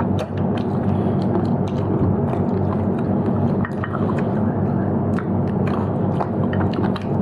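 Mouth-close eating: chewing with many small wet clicks and smacks, over a steady low background hum.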